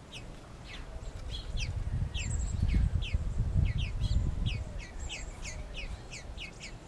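A small bird chirps over and over, giving short descending chirps about three times a second. Under it, a low rumble swells through the middle and then fades.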